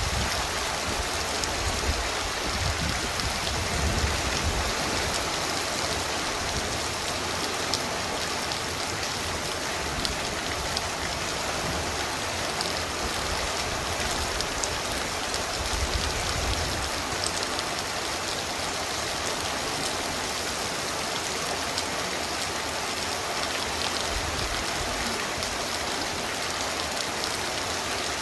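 Torrential rain pouring down in a steady, even roar, with low rumbling swells in the first few seconds and again about sixteen seconds in.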